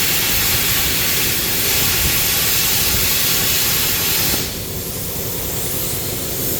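HTP Microcut 45 air plasma cutter cutting through a steel truck frame, a loud steady hiss. About four and a half seconds in, the sound drops and thins to a lighter hiss.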